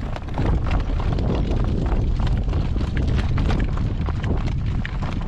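Horse's hooves clip-clopping on the road as the harnessed horse walks, heard as a run of irregular clicks under heavy wind buffeting the microphone.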